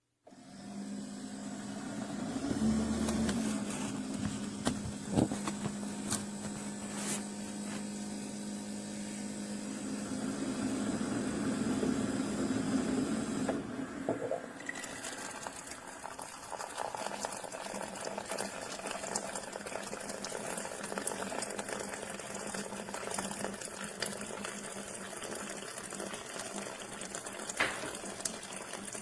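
Keurig K-Classic pod coffee maker brewing: the machine hums steadily while coffee streams and gurgles into the cup. The hum stops about halfway through and the trickling runs on.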